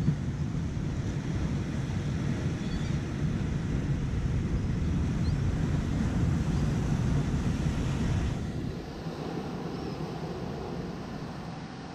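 Wind buffeting the microphone over the wash of surf, easing off about eight seconds in.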